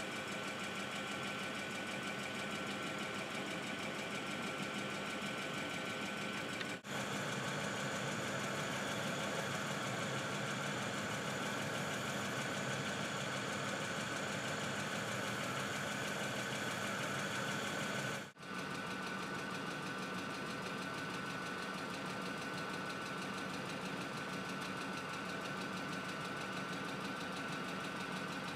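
Ford Expedition V8 engine idling, a steady hum with two brief dropouts.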